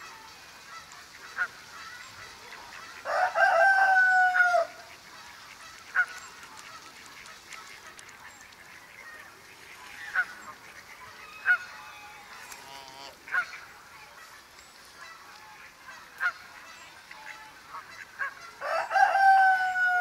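Nature-ambience bird calls: a loud cluster of overlapping calls, each slightly falling in pitch, for about a second and a half starting about three seconds in, another cluster near the end, and short single calls scattered in between.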